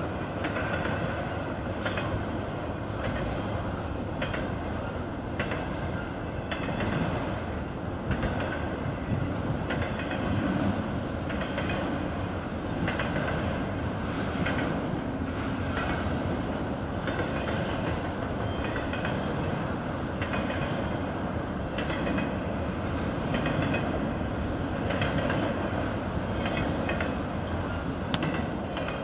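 Norfolk Southern intermodal freight train's container cars rolling past: a steady noise of steel wheels on the rails, with many irregular clicks and clunks.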